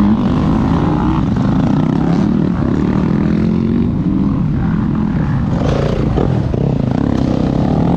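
Motocross dirt bike engine running hard, its pitch rising and falling as the revs change, over a steady rush of noise.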